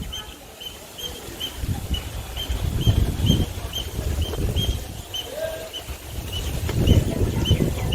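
A short high chirp repeated about twice a second, over uneven low rumbling and handling noise on the microphone.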